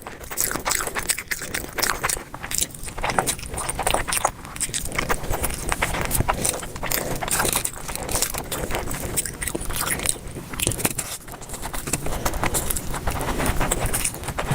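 A person chewing and biting food close to the microphone, with many quick, irregular clicks and smacks.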